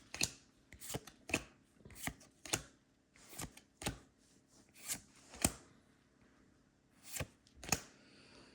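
Pokémon trading cards being flicked and slid one by one through an opened booster pack: about a dozen quick, sharp card snaps at irregular spacing, with a short pause in the second half.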